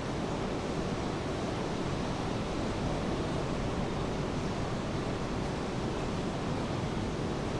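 Steady rain with ocean surf, an even unbroken wash of noise.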